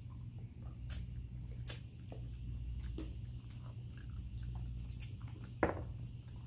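People chewing and biting into sauced fried chicken wings: scattered small crunches and clicks, one louder near the end.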